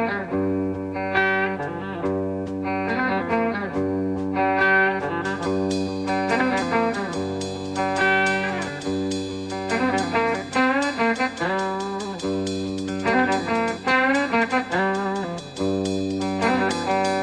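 Instrumental psychedelic rock: an electric guitar plays a lead line with bent and sliding notes over a steady bass. From about five seconds in, fast, even ticking from the cymbals joins.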